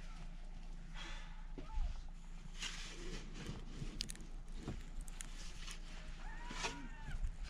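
Scattered crunches and scrapes of snow being dug and trodden, with a brief high squeal about six and a half seconds in.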